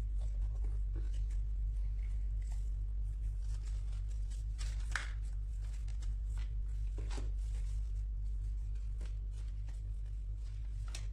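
Packaging being handled during an unboxing: scattered short rustles and scrapes of box and wrapping, the clearest about halfway through and near the end, over a steady low electrical hum.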